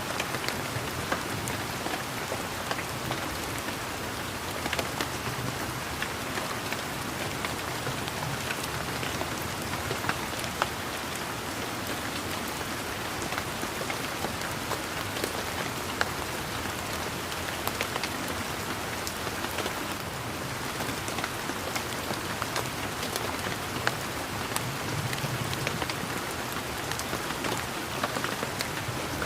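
Steady rain falling on leaves and garden surfaces, an even hiss dotted with the sharp ticks of single drops.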